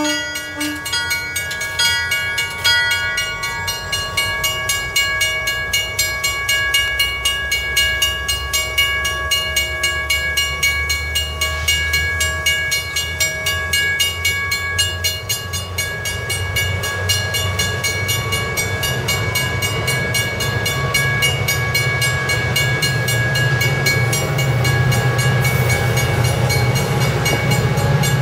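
MARC commuter train passing close by, cab car first: a bell rings in steady strokes about twice a second, and the stainless-steel coaches roll past with a low rumble of wheels on the rails that grows louder over the second half.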